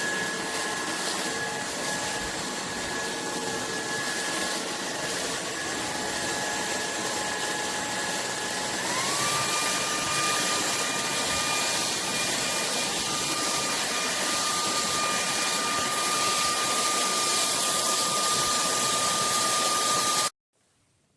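UNINELL UV3 cordless stick vacuum running: a steady rush of suction air over a high motor whine. About nine seconds in, the whine steps up to a higher pitch. The vacuum then cuts off abruptly near the end.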